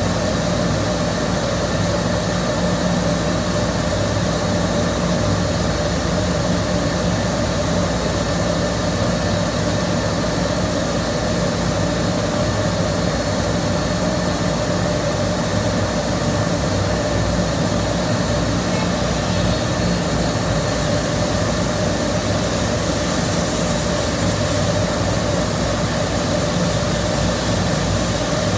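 Steady roar of a boiler being fired under test, with a constant hum and a few steady tones and no change in level throughout.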